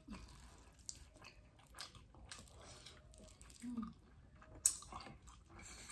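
Close-up mouth sounds of people chewing rice with eggplant sambal, with small wet smacks and clicks scattered throughout and one sharper click about three-quarters of the way through.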